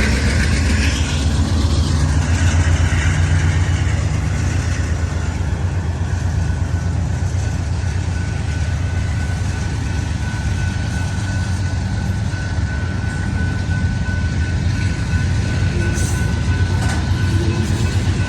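Freight train cars rolling past slowly at low speed, a steady low rumble of wheels on rail with a thin steady whine joining in about six seconds in.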